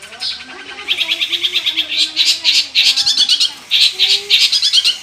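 Long-tailed shrike singing: rapid, buzzy chattering phrases that start about a second in, with a short break past the middle.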